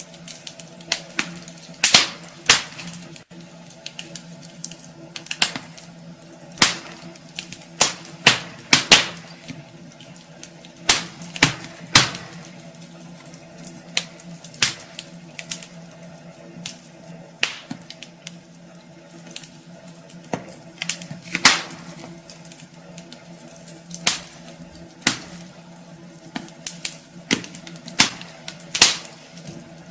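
Wood fire burning in a fireplace, crackling with irregular sharp pops and snaps, a few of them loud, over a low steady background.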